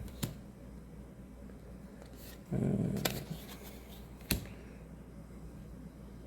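Trading cards being handled: a few light sharp clicks, with a short low murmur about two and a half seconds in.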